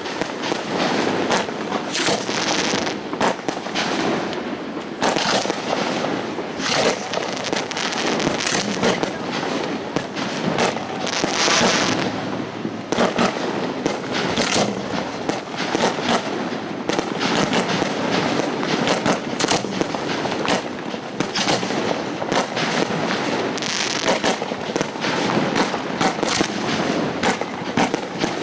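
Fireworks show: a dense, continuous barrage of aerial shell bursts, booms and crackling, with a few louder crackling volleys.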